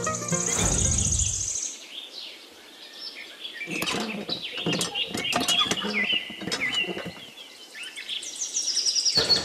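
Birds chirping and tweeting in bursts of short, quick high notes, with quieter gaps about two seconds in and again near the end.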